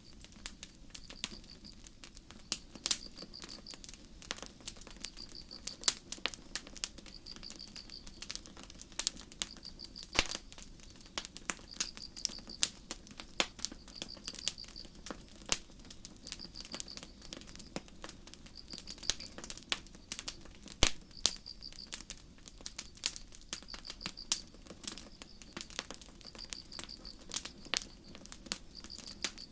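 Campfire crackling, with frequent sharp pops of burning wood. A cricket chirps steadily over it in short high trills, about one every second and a half.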